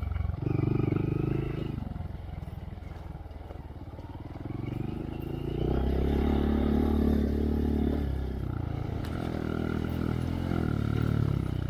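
2023 Honda Monkey's single-cylinder engine through a Yoshimura RS3 slip-on exhaust with spark arrestor, being ridden with the throttle opened and eased off. It rises sharply at the start, drops back, then picks up again about six seconds in.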